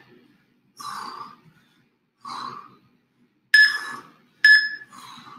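A person exhaling hard from exertion: five short, forceful breaths about a second apart, the last three sharper and louder, with a slight whistle in them.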